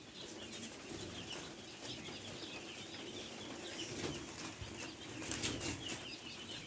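A flock of quail chirping in many short high calls, with rustling and a few sharp clicks from the birds moving in their enclosure.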